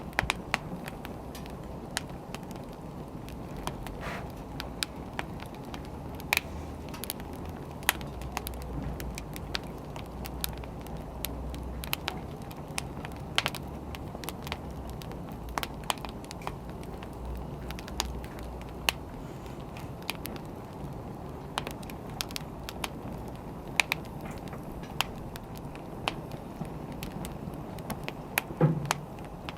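Wood fire crackling: irregular sharp pops and snaps over a low steady rumble, with a small flurry of pops near the end.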